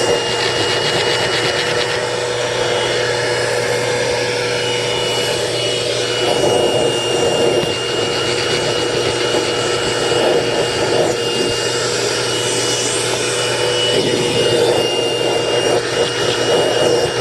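A motor-driven machine running steadily with a constant whine and hum, its noise surging a little from moment to moment.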